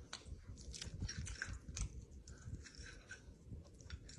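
A person chewing a mouthful of jerk chicken and rice, with many small irregular wet clicks and smacks.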